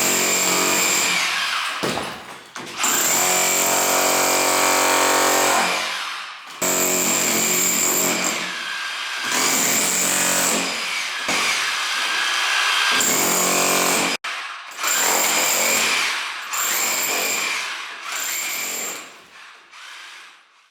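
Electric rotary hammer breaking up a masonry wall, run in bursts of a few seconds with short pauses between them, dying away near the end.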